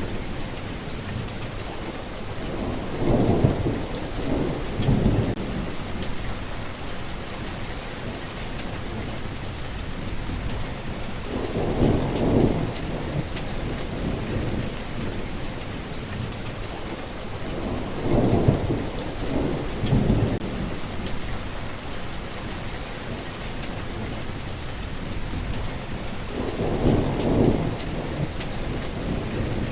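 Steady heavy rain falling, with rumbles of thunder swelling up four times, around 3 to 5 seconds, 12 seconds, 18 to 20 seconds and 27 seconds in.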